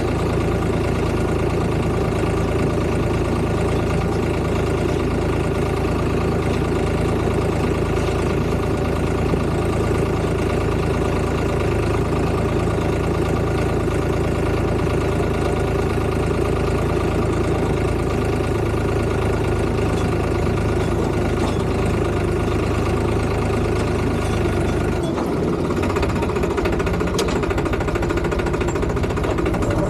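Tractor engine running steadily, with a change in its low note about 25 seconds in.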